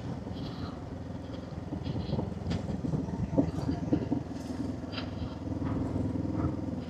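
Honda 471 cc parallel-twin motorcycle engine running on the road at a steady pace, under wind and road noise on the bike-mounted microphone.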